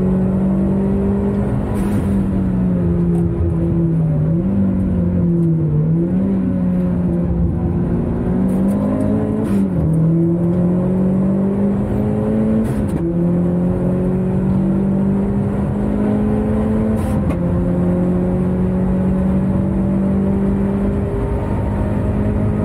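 A car's engine heard from inside the cabin while it is driven hard on a circuit. The note rises and falls through corners for a few seconds near the start, then climbs under acceleration with two sudden drops in pitch, about thirteen and seventeen seconds in, as it shifts up.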